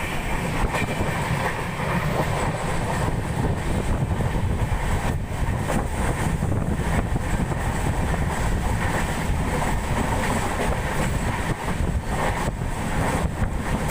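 Passenger train running along the track: a steady low rumble of wheels and carriage on the rails.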